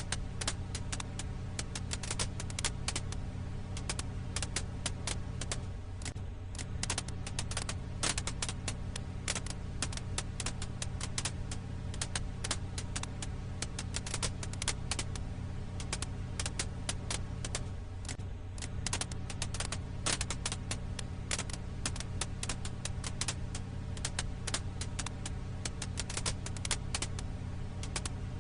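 Firewood crackling: frequent, irregular sharp pops and snaps over a steady low hum.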